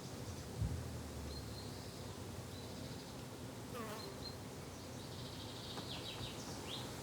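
Flying insects buzzing steadily, with brief bird chirps and one falling bird call a few seconds in. A short low thump sounds about half a second in.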